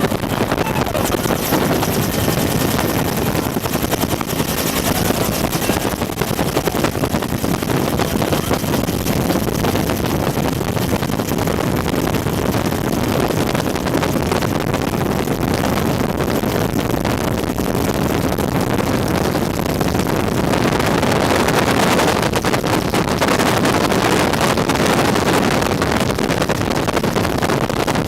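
Bell UH-1 Huey helicopter in flight, its turbine and rotors running steadily. Heavy wind rush comes in through the open doors and hits the microphone. It grows a little louder about two-thirds of the way through.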